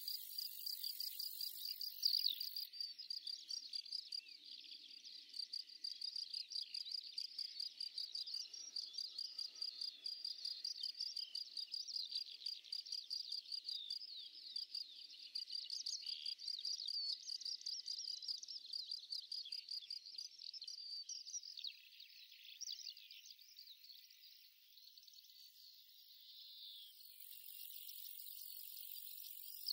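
Crickets chirping in a fast, even, high-pitched pulse, with quicker high chirps over it. The chirping fades away during the last several seconds.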